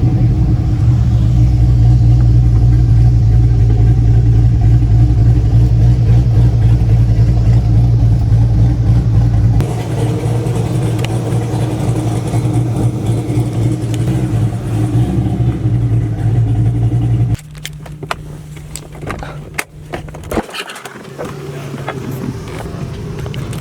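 Car engine running steadily and loudly. The sound changes abruptly about ten seconds in, then drops suddenly to a much quieter stretch with a few sharp clicks.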